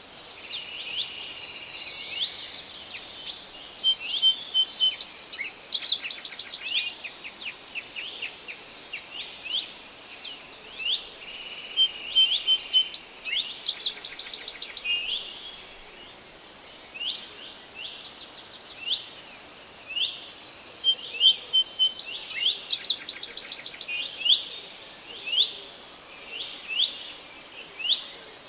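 Several songbirds singing and calling at once in a forest, with quick downward-sweeping notes, rapid trills and short repeated phrases over a faint steady hiss.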